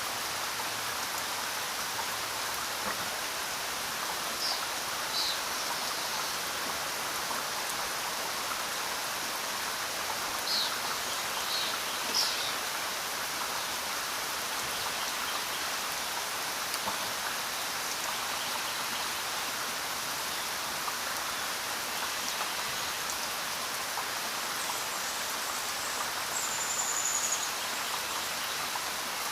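Steady rain falling, an even hiss of drops. A few short high chirps sound over it, and a thin high whistle comes near the end.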